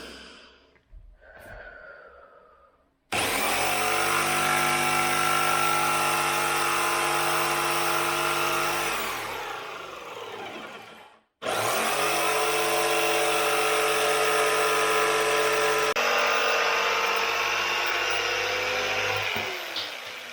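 Electric power saw run twice, cutting down a kitchen cupboard at the top and then the bottom. Each run starts suddenly, holds a steady motor whine for six to eight seconds, then spins down. A few light knocks come before the first cut.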